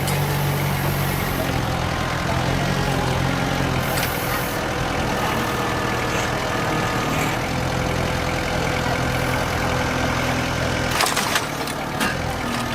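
Engine of a heavy road-construction machine running steadily, with a few sharp clicks or knocks near the end.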